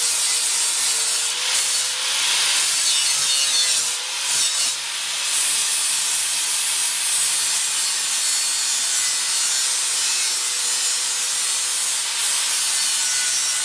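Angle grinder grinding the cut edge of a steel truck bumper, tapering it for a weld: a steady abrasive hiss with a faint motor whine, briefly dipping about four seconds in.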